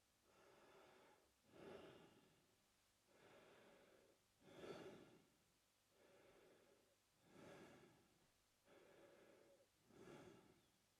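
A man breathing slowly and steadily through his mouth, faint. Softer, drawn-out breaths alternate with shorter, louder ones, about four full breath cycles.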